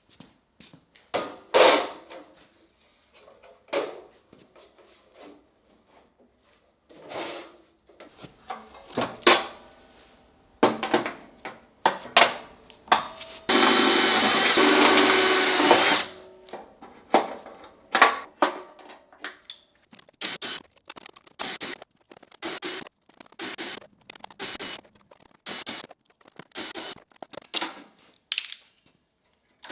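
Metalworking on car body panels: a string of short knocks and scrapes of tools on sheet metal. Midway, a power tool runs steadily for about two and a half seconds, then a fast run of short sharp strikes, about two a second, follows.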